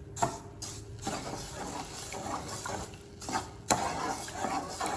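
A spoon stirring sugar into water in a metal pan on the stove, scraping against the pan with a few sharp knocks, over a faint steady hum.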